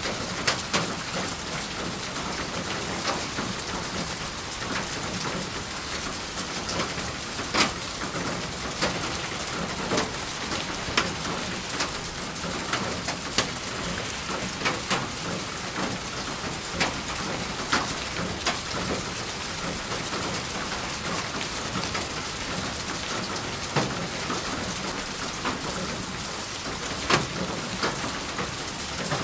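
Steady rain falling, with single heavy drops striking a hard surface close by every second or two.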